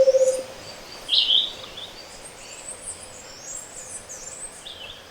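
Tropical dawn bird chorus. In the first half second a low, hollow, rapid trill of hoots swells to its loudest and then stops abruptly, typical of a Scaled Antpitta's song. A loud short chirp comes about a second in, with many thin high-pitched calls from other birds throughout.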